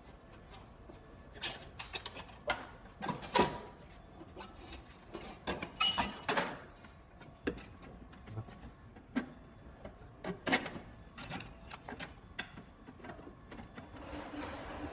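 A string of irregular clicks and knocks, as of tools and parts being handled, at uneven spacing, with the loudest knocks a few seconds in and again about six seconds in.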